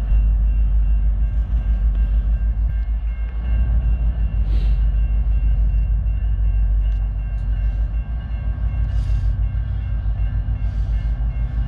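A long train passing close by, with a heavy low rumble and a rapid, steady clatter of wheels on the rails. A faint steady ringing tone sits above it, and there are a few short hisses about 5, 9 and 11 seconds in.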